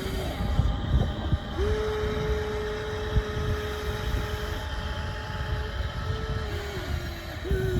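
Radio-controlled toy construction machine's electric motor whining, holding one steady pitch for a few seconds, then rising and falling in short swoops near the end as it speeds up and slows. A low rumble and a few knocks run underneath.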